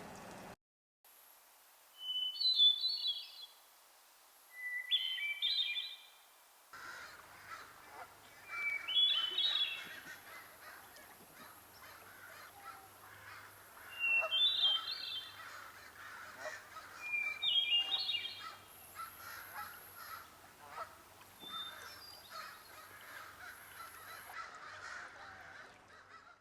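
A songbird singing a short phrase of quick notes, repeated about five times with pauses of a few seconds between, over a steady background hiss.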